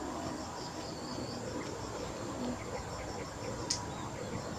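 Insects chirping in a high, steady, pulsing trill over a faint background hiss, with one short click about three-quarters of the way through.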